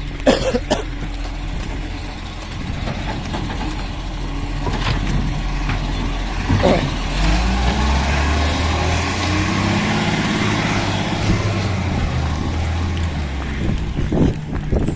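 Garbage truck engine running, its revs climbing about halfway through, holding with a rise and fall in pitch, then easing off near the end. A few sharp knocks sound in the first second.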